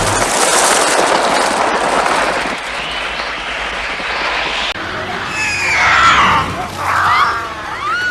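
A loud, dense rush of noise, then, from about five seconds in, overlapping high screeching cries that rise and fall.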